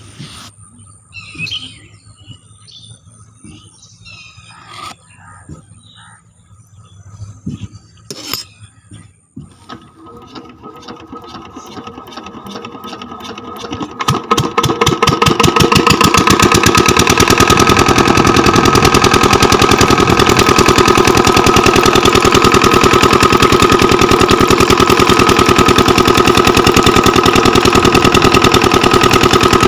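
Miniature diesel engine of a model water pump being started: a few light clicks and knocks, then about ten seconds in it catches, its firing speeding up and getting much louder over several seconds before it settles into a fast, steady run.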